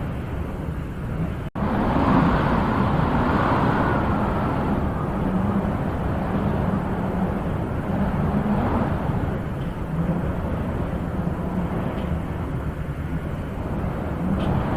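Wind blowing in gusts, a steady rushing that swells a couple of seconds in and then eases, with a break of an instant about a second and a half in.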